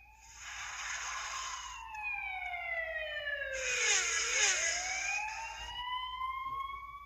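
Synthesized phone sound effect from the EV-W350: a siren-like tone that glides slowly down in pitch for about four seconds and then swoops back up, with two bursts of hiss laid over it.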